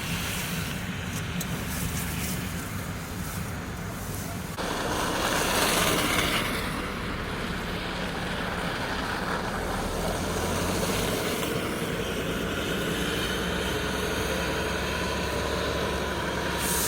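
A vehicle engine running amid steady outdoor traffic noise; the sound changes abruptly about four and a half seconds in, and a steady low engine hum comes in around ten seconds in.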